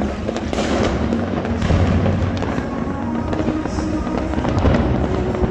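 Many New Year fireworks going off at once, a dense, unbroken stream of crackles and bangs with no pauses.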